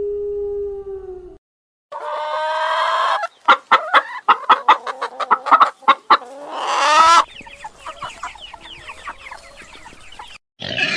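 A long drawn-out animal howl fades out in the first second. After a short gap, chickens cluck rapidly and squawk, with a rising squawk about seven seconds in, then a quieter, busier stretch of clucking.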